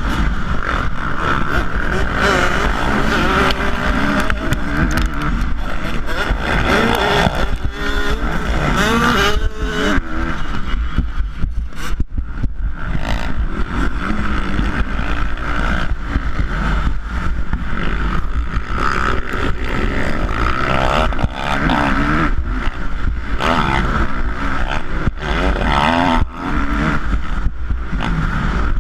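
450-class motocross motorcycle engines racing, revving up and down repeatedly as the riders work the throttle through the track, with a steady low rumble of wind on the microphone underneath.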